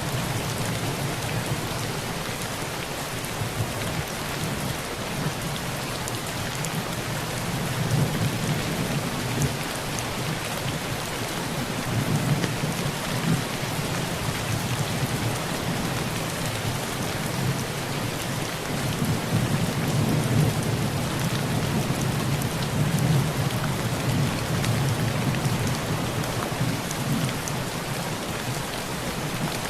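Heavy rain pattering on a rusty tin roof, a dense steady hiss full of fine drop ticks, with low thunder rumbling underneath that swells several times.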